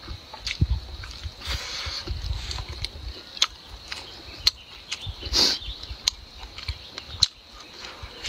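Close-miked eating: chewing a mouthful of sausage and rice, with wet mouth clicks and lip smacks at irregular intervals. A short louder burst comes about five and a half seconds in.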